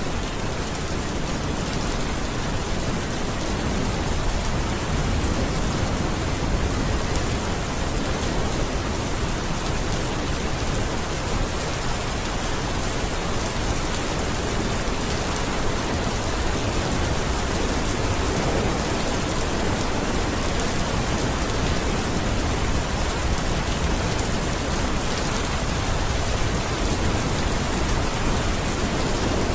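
Steady heavy rain, a dense even hiss of falling drops.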